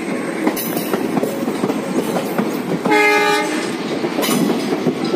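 Devagiri Express passenger train running, with one short, steady locomotive horn blast about three seconds in.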